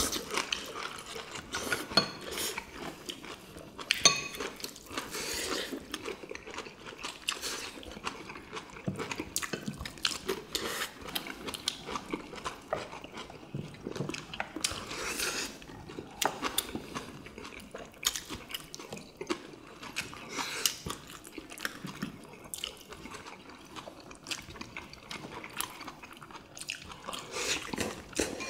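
Several people chewing and eating at a table, with frequent small clicks of chopsticks against ceramic bowls and plates.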